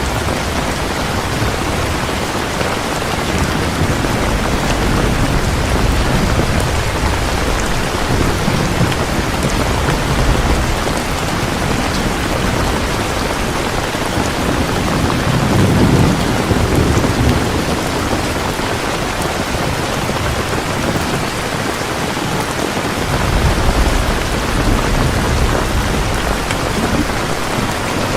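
Heavy rain falling steadily, with low thunder rumbling and swelling up three times.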